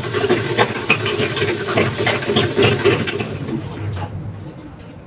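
Vegetables frying in a steel pot, sizzling and hissing with a ladle clinking against the pot, as water is poured in for the rice; the hiss dies away a little after three seconds.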